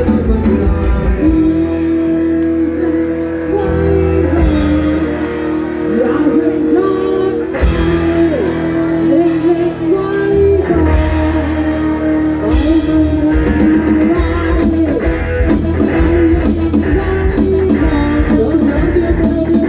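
Loud amplified band music from a Thai rot hae sound truck: a sustained, bending lead melody on an amplified plucked-string instrument over heavy bass and drums.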